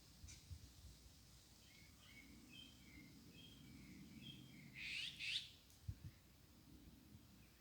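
Eurasian nuthatch calling faintly: a string of short, soft chirps, then two louder rising calls about five seconds in.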